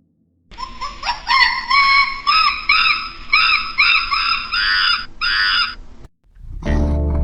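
A bird calling over and over with short, harsh, rising-and-falling calls, about two or three a second, stopping about six seconds in. Music starts near the end.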